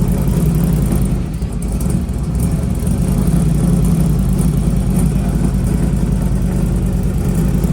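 1957 Chevrolet truck's engine running steadily, with a slight dip about a second in; it carries a camshaft that can be heard in its note.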